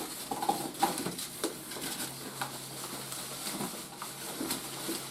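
Plastic toy parts and packaging being handled: scattered light clicks and rustling.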